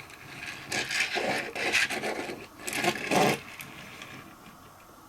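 Toys being handled and pushed over a surface, making scraping and rubbing sounds in several bursts over about three seconds.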